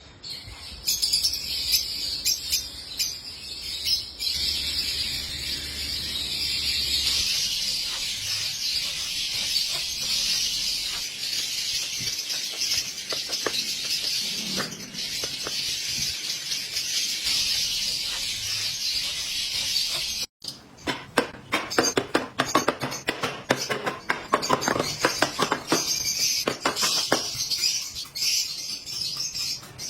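A flock of lovebirds chattering, a dense continuous high-pitched chatter. About two-thirds of the way through the sound breaks off for an instant, then picks up again as a run of short, sharp, rapid calls.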